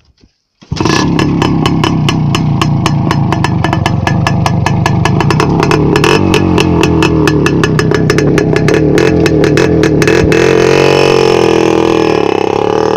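A Voskhod motorcycle's single-cylinder two-stroke engine catches about a second in. It then runs very loud through exhaust pipes stripped of their muffler baffles, in a rapid stream of crackling exhaust pops. The revs rise and fall near the end.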